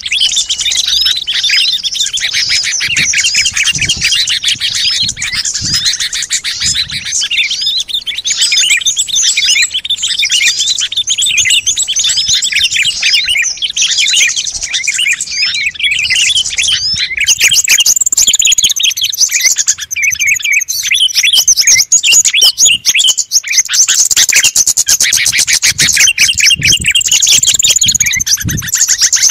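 Dense chorus of many small songbirds chirping and trilling over one another: a bird-lure recording played to call in small wild birds. About seventeen seconds in it grows louder and adds higher, thinner calls.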